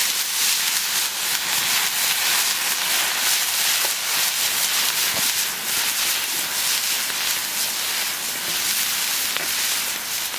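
Paella sizzling steadily in a 15-inch Lodge cast-iron pan over an open campfire, with a few faint crackles.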